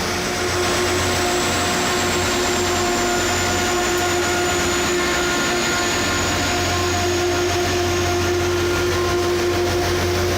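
Rail grinding train at work: a loud, steady grinding noise of the grinding stones on the rails, with a steady hum and a faint high whine that sinks slightly in pitch running through it.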